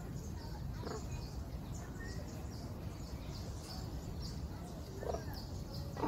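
Small birds chirping in the background: many short, high chirps scattered throughout, over a steady low rumble.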